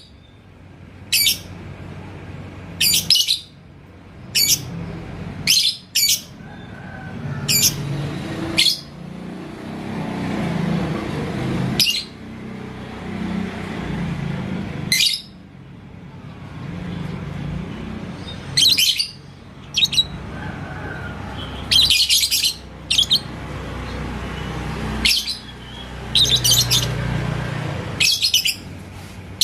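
Lovebird giving short, shrill chirps at irregular intervals, singly or in quick pairs, with a denser cluster about 22 seconds in.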